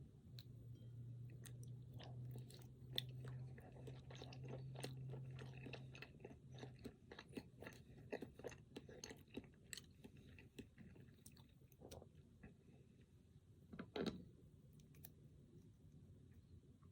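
Close-miked chewing of a cream-filled chocolate snack cake, with many small wet mouth clicks and one louder mouth sound near the end. A low steady hum runs underneath during the first half.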